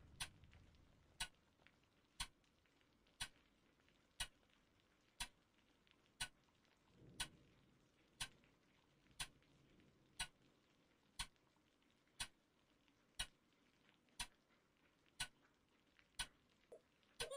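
A clock ticking steadily, one sharp tick a second, over a faint low rumble that swells briefly near the start and around seven seconds in.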